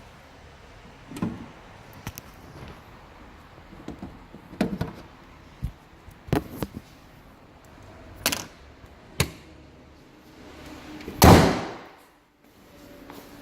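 Scattered clicks and knocks of handling, then one loud slam about eleven seconds in, typical of a car panel being shut.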